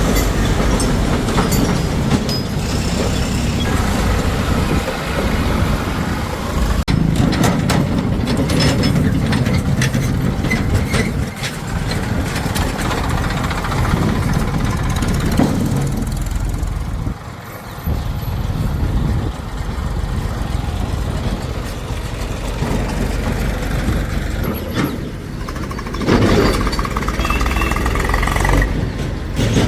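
Heavy diesel machinery working: the engines of a backhoe loader and farm tractors running steadily, with a cluster of sharp knocks about a quarter of the way in and a brief lull a little past halfway.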